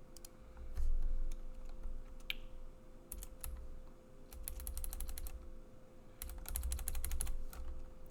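Typing on a computer keyboard in quick bursts of keystrokes with short pauses between them, over a faint steady hum.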